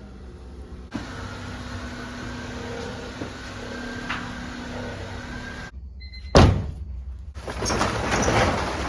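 A door shutting with a single loud thud about six seconds in, between stretches of steady background noise.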